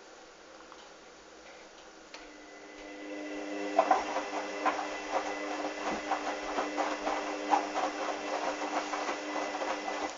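Hoover washing machine running: its motor hums from about two seconds in, with irregular clicking and knocking from the turning drum, then stops abruptly at the end.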